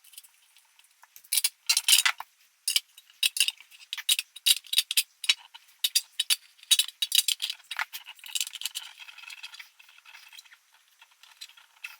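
Small metal parts and hand tools clinking and rattling against each other in a quick, irregular run of light, thin clicks. They start about a second and a half in and thin out after about eight seconds.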